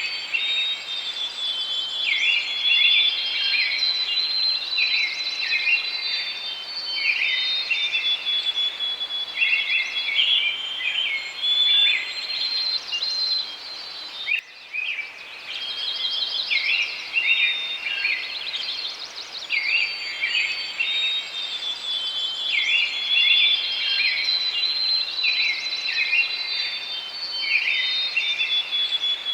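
Several songbirds singing and chirping together in a dense, unbroken chorus over a steady background hiss. There is a brief gap about halfway through, after which the same chorus starts over.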